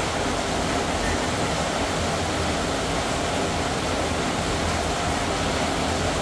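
A steady, even rushing noise with a low hum underneath.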